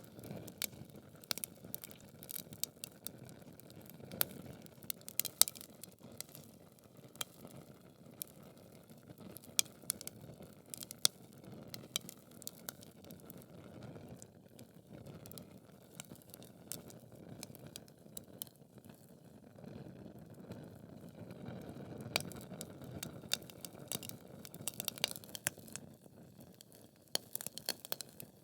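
Wood logs burning in a fireplace: frequent irregular sharp crackles and pops over a low, steady rush of flame.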